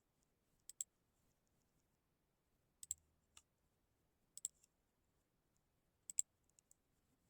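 Faint computer mouse clicks, mostly quick double-clicks, four pairs with a single click after the second. The room is otherwise near silent.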